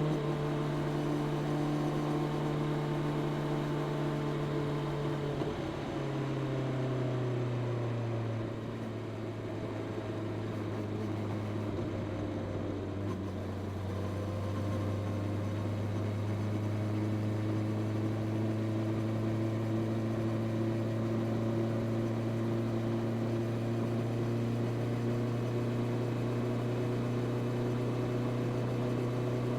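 Honda CB650R's inline-four engine with stock exhaust running steadily under way. Its note drops in two steps, about six and eight seconds in, then holds steady at the lower pitch.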